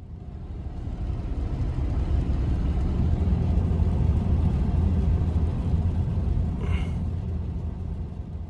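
A steady low rumble that fades in at the start, with a brief higher-pitched squeak about seven seconds in.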